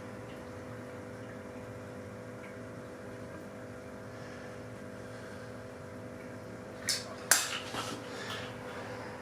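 Steady low background hum with faint steady tones. Near the end come four or so sharp clicks and knocks in quick succession, the second the loudest: the silicone sealant gun and cartridge being handled against the tank.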